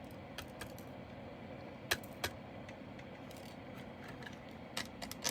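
Scattered light clicks and taps from handling small plastic bags and containers of diamond painting drills, with two sharper clicks about two seconds in and a few more near the end.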